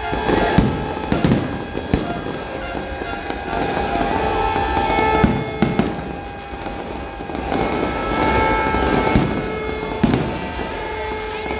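Fireworks display: aerial shells bursting in a continuous run of bangs and crackling, with music playing underneath.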